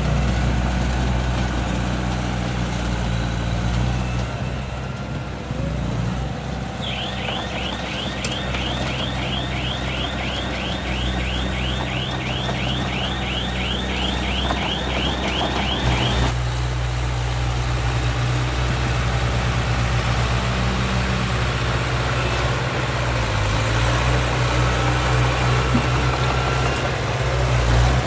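Heavy diesel engine of earthmoving machinery running steadily, its note shifting about two-thirds of the way in. From about a quarter of the way in to about halfway, a rapid, evenly repeating high-pitched chirping runs over it at roughly three a second.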